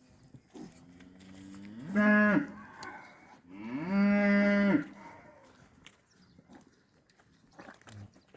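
Cattle mooing: a soft low call, then a short loud moo about two seconds in and a longer moo held for over a second just after the middle.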